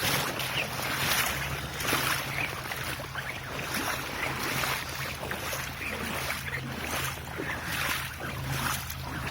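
Floodwater splashing and lapping, with gusts of wind on the microphone over a steady low hum.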